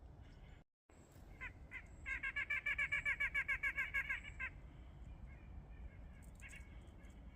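Nuthatch calling: a few single nasal notes, then a quick even run of about twenty notes lasting two and a half seconds, then a couple more single notes near the end. There is a brief cut to silence about a second in.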